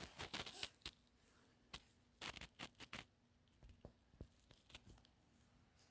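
Faint scattered clicks and rustles of handling, bunched in the first three seconds.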